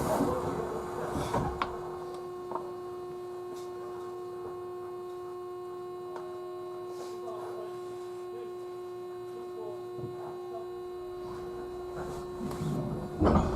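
Steady electrical hum from a JR Central 311 series electric train standing still, with a few faint ticks; louder running noise comes back near the end.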